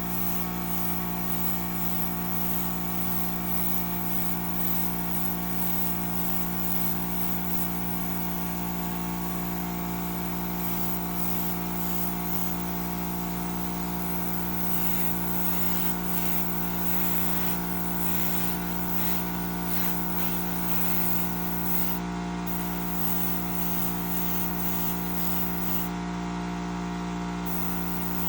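Steady hum of a small electric motor running without change, with several constant tones.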